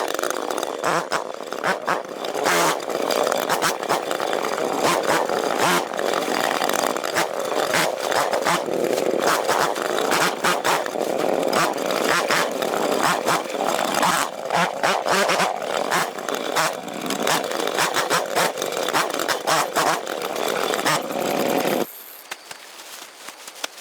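Chainsaw running and cutting through bamboo, its rough engine note broken by many sharp cracks; it cuts off abruptly near the end.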